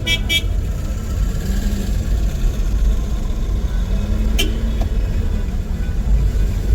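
Car engine and road rumble, low and steady, with a brief high-pitched chirp at the very start and a single sharp click about four and a half seconds in.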